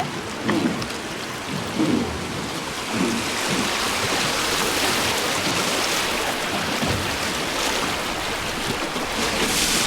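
Rushing river water around a wooden boat, a steady hiss that swells and holds loud from about three seconds in. A few low whooshes about a second apart come before it.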